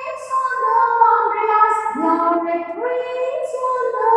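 A woman singing a children's poem to a simple nursery-rhyme tune, in long held notes.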